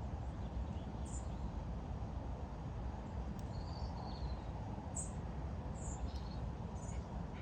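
Small birds chirping now and then in short, high calls, over a steady low background rumble.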